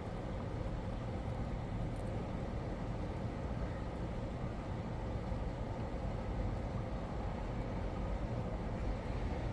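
Steady low background rumble with a faint hum, like distant traffic; no cicada song is heard.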